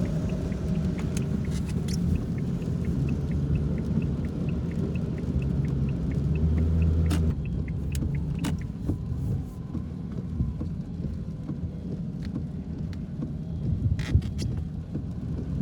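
Low road and engine rumble inside a moving car, with a faint rapid ticking over it. About seven seconds in the rumble drops to a quieter steady hum, with a few sharp clicks later on.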